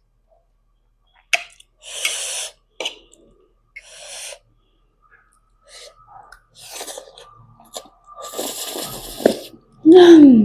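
Sharp breaths and hissing through the mouth from a person eating very spicy noodles, reacting to the burn. A loud vocal 'ah' falling in pitch comes near the end.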